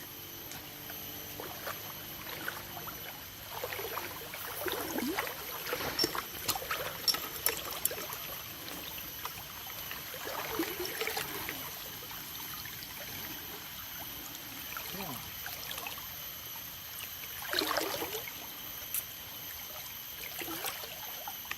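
River water splashing and trickling in irregular bursts, strongest in the first half and again briefly near the end. Behind it runs a steady high-pitched insect drone.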